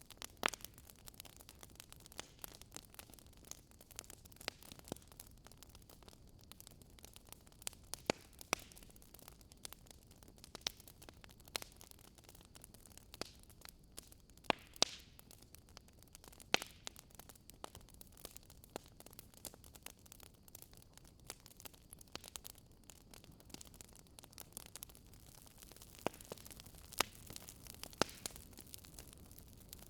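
Wood fire crackling in a fireplace: irregular sharp pops and snaps, a few louder ones scattered through, over a soft steady hiss.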